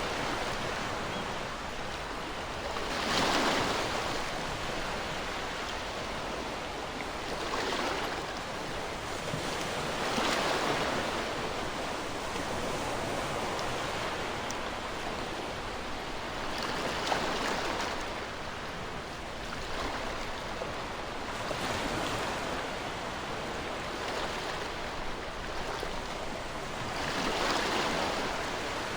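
Ocean waves breaking on a shore: a continuous wash of surf that swells and recedes every few seconds as each wave comes in.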